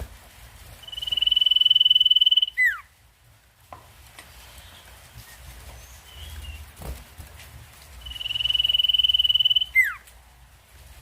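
Sirtu (iora) trilling: a steady, rapid trill of well over a second that ends in a quick downward-sliding whistle, given twice with a pause of several seconds between.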